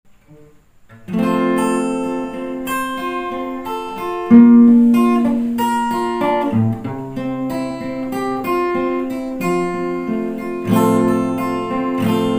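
Acoustic guitar playing a song's introduction, strummed chords starting about a second in and changing every second or so.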